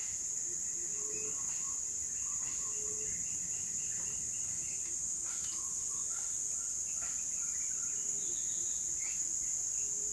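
Steady, high-pitched drone of a forest insect chorus of crickets or cicadas. Scattered short chirps and calls from other animals are heard over it.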